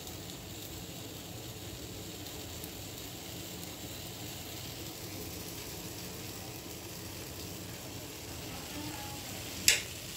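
Sandwich toasting in butter on a hot tawa, with a low steady sizzle. One sharp click near the end.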